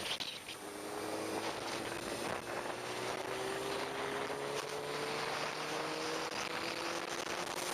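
Motorcycle engine pulling steadily while riding, its pitch climbing slowly as it gathers speed, under a steady rush of wind noise.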